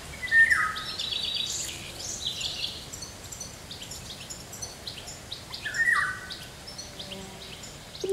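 Several birds chirping and calling, with one louder call that drops in pitch in steps, heard near the start and again about six seconds in.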